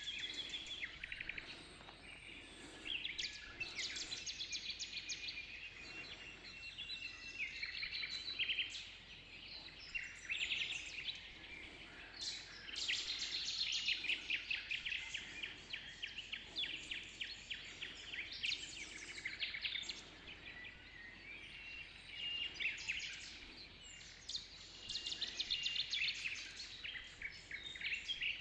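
Dawn chorus of many songbirds singing at once: overlapping high chirps and fast trills from several birds.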